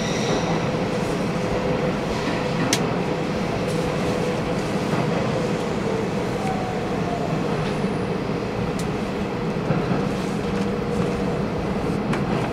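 Hanshin Railway commuter train running steadily through a tunnel, heard from inside the car: a continuous rumble of wheels and running gear with a faint steady hum and a few sharp clicks from the track.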